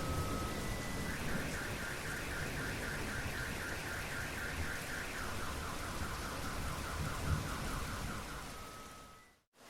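Steady rain with a car alarm sounding over it, stepping through its tone patterns: alternating two-tone beeps, then a fast warble, then a slower, lower warble. Near the end everything fades out to a moment of silence.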